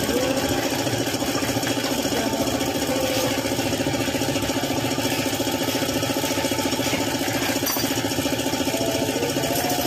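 Suzuki F6A three-cylinder engine idling steadily, with a fast, even pulse.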